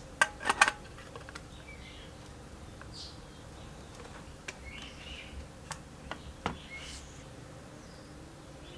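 Three sharp clicks in quick succession near the start, followed by scattered lighter clicks and taps.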